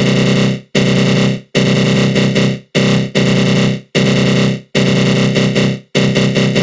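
Synthesized 'attack growl': a harsh, buzzy synth tone with a flanger effect, played in loud repeated bursts of about half a second to a second, each starting abruptly and fading out, with brief gaps between them and the bursts getting shorter near the end.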